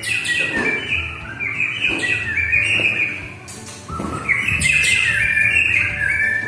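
White-rumped shama (murai batu) singing: two quick, varied phrases of high notes, with a short break about three seconds in.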